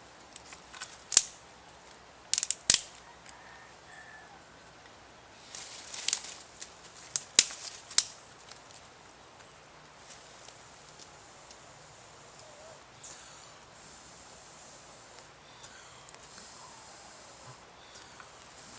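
Newly lit campfire crackling, with several sharp pops and cracks in the first eight seconds, then a steady high hiss.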